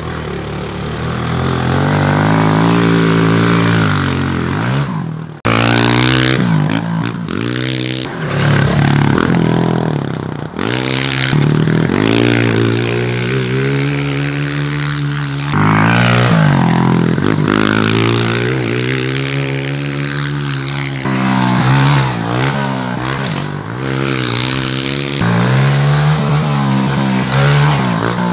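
Small four-stroke Honda pit bike engine revving hard as the bike is ridden on a dirt track. The pitch climbs and drops again and again as the throttle is opened and closed and gears are changed. The sound breaks off abruptly for an instant about five seconds in.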